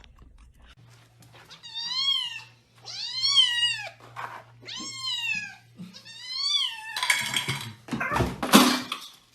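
A cat meowing four times, each call rising and then falling in pitch. Near the end comes a loud noisy burst with no clear pitch, the loudest part.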